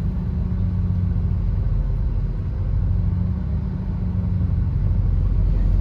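A train running, a steady low rumble with a low hum.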